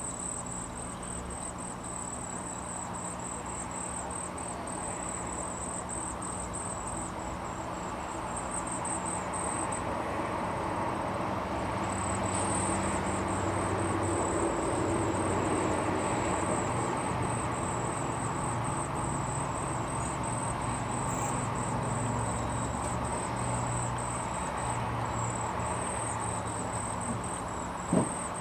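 Insects trilling steadily at a high pitch, with a short break about a third of the way through, over a low hum that swells in the middle and fades again. A single sharp knock sounds near the end.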